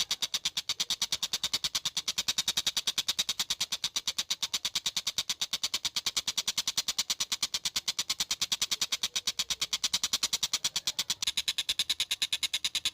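Tengkek buto (stork-billed kingfisher) calling in a fast, unbroken chatter of short high notes, about eight a second, evenly spaced like a running train.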